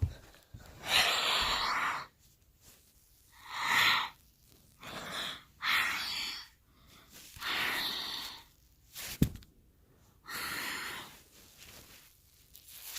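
A person breathing heavily right at the microphone: a string of loud, noisy breaths of about a second each, with one sharp click a little after nine seconds in.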